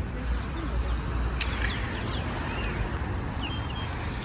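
Small birds chirping, many short quick calls, over a steady low outdoor rumble; a single sharp click about a second and a half in.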